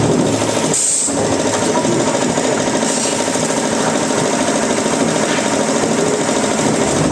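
Sawmill woodworking machinery running steadily, with a short high hiss about a second in and again around three seconds.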